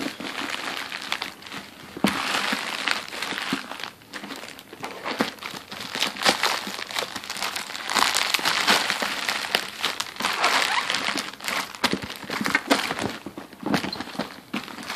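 Packaging wrapped around a shoebox being crinkled and pulled off by hand, with an irregular run of crackles and sharp crunches.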